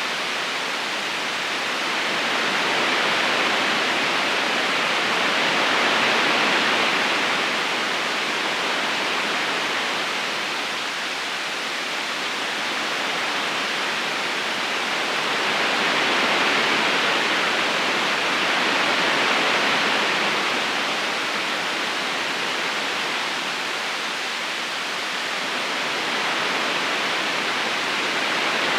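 Flowing river: a steady rush of water that gently swells and eases every few seconds.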